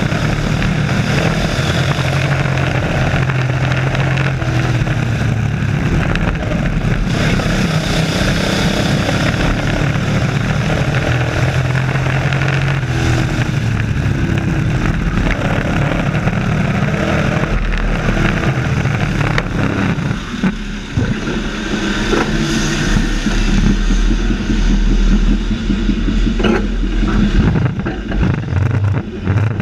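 Racing trucks' engines running hard around an oval track, loud and continuous, their pitch rising and falling as they accelerate and pass.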